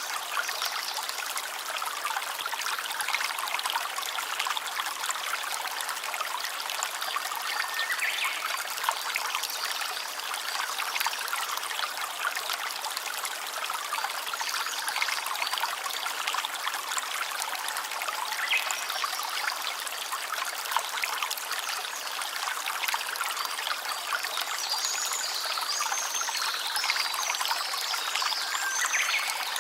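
A small stream trickling and babbling steadily, with a few faint, short high chirps over the water now and then.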